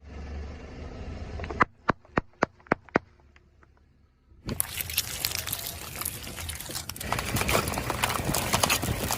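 Crunchy objects cracking and crunching under a car tyre: six sharp cracks about a quarter-second apart, then after a short pause a dense crackling crunch that grows louder near the end.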